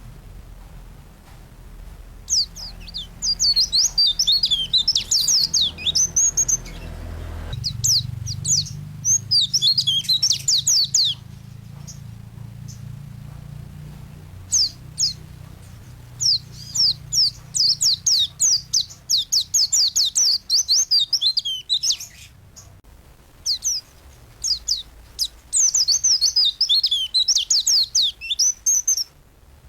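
A pleci (white-eye) singing gacor: long, loud bouts of rapid, high, twittering song, broken by short pauses and a few single notes. Under it runs a faint low hum.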